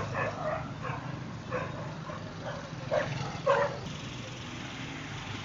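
A dog barking in short, irregular barks, loudest about three seconds in, over a low steady hum.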